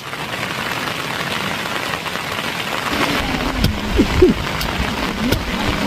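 Steady rain falling, with scattered drops striking close by. From about halfway through, some low wavering pitched sounds come in underneath the rain.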